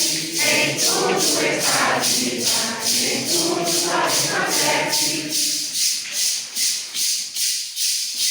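A group of voices sings the last line of a Santo Daime hymn over maracas shaken in a steady rhythm. The singing stops about five seconds in, leaving the maracas alone at about three shakes a second.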